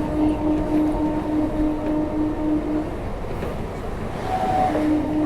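Electric suburban local train running at speed: a steady rumble of wheels on track with a pulsing hum that drops out for about two seconds in the middle.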